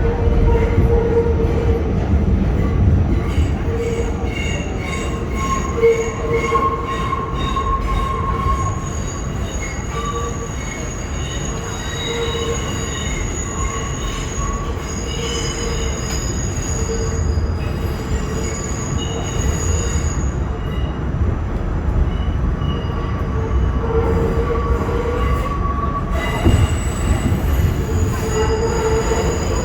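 R46 subway car running through an underground tunnel: a steady low rumble, with the wheels squealing on and off in thin high tones.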